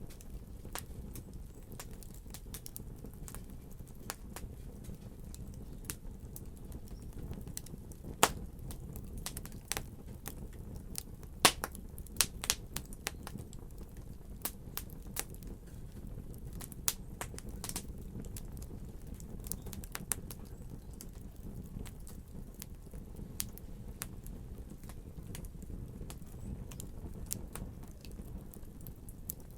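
Wood fire crackling over a steady low rumble, with sharp pops at irregular intervals and a louder cluster of snaps near the middle.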